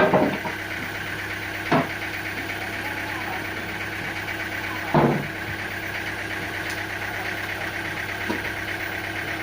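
Sawmill machinery running with a steady hum, with heavy knocks at the start, about two seconds in and about five seconds in, and a lighter one near the end.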